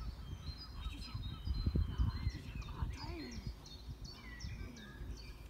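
Birds chirping and calling repeatedly, with gusts of wind rumbling on the microphone.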